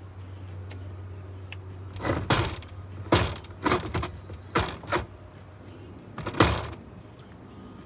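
Can of expanding spray foam spurting in about six short, sharp bursts as foam is shot into gaps in a camper wall.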